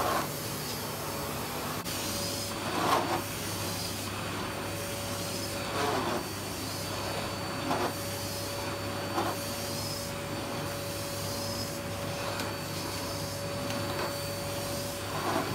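Electric floor cleaner's motor running steadily with a constant hum and whine, with a brief swish every couple of seconds as it is pushed back and forth across the floor.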